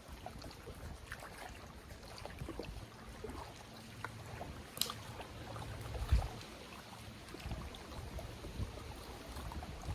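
Water lapping and trickling against a kayak hull, with a sharp click about five seconds in and a low knock on the hull about a second later.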